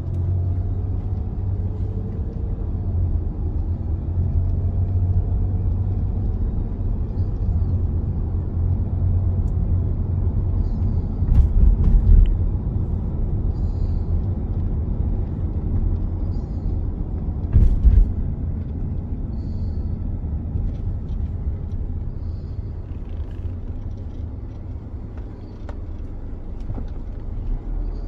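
Car driving along, a steady low rumble of engine and road noise heard from inside, with two brief louder thumps about 11 and 18 seconds in.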